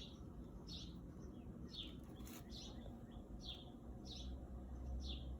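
A small bird chirping over and over, faintly: short, quick downward chirps about one every second, over a low rumble.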